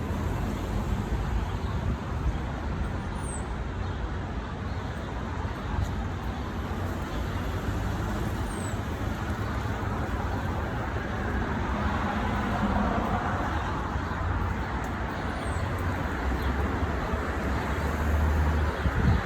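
Steady city road traffic running, a constant rumble and hiss, with three brief faint high chirps spread through it.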